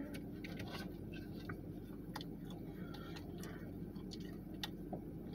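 Faint scattered clicks and small mouth noises of eating, over a steady low hum in a car's cabin.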